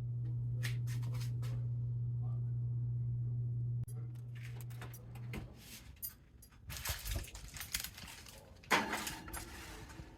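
A steady low hum that stops about four to five seconds in, followed by the clinking and clattering of kitchen utensils and dishes being handled, with two louder scraping rattles near the end.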